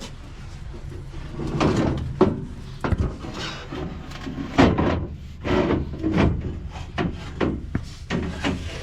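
Irregular clunks and knocks of heavy metal parts being handled and set in place inside a combine, over a steady low hum.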